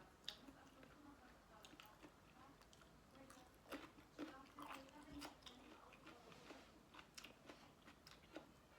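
Faint chewing of seafood papaya salad, with small mouth clicks and smacks scattered throughout.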